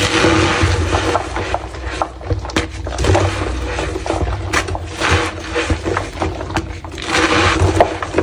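Soft, dusty block of gym chalk being squeezed and crushed, giving a squeaky crunch like stepping on snow, broken by many small snaps. The crunching surges near the start, about three seconds in and again near the end, over a steady low hum.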